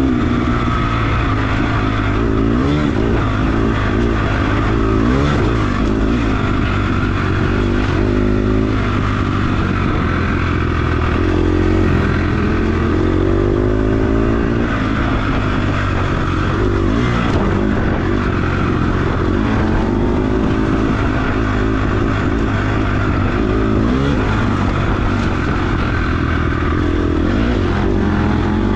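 Off-road dirt bike engine at race pace, its pitch rising and dropping again and again as the rider accelerates, shifts and backs off.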